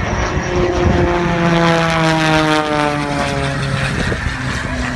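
Propeller-driven aerobatic biplane flying past, its engine and propeller note falling steadily in pitch for a few seconds.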